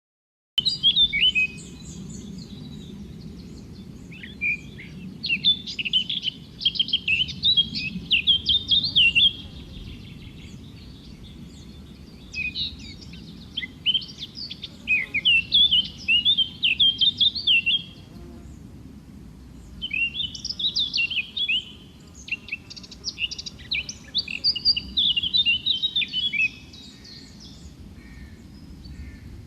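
A songbird singing long phrases of quick, varied chirps and trills, each phrase several seconds long with short pauses between, over a steady low background noise.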